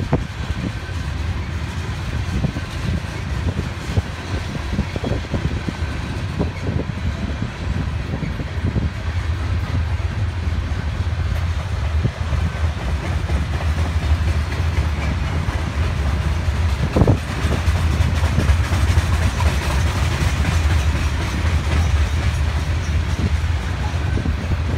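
Freight train cars, mostly covered hoppers, rolling past close by: a steady low rumble of steel wheels on rail, with scattered clicks and knocks, getting a little louder in the second half.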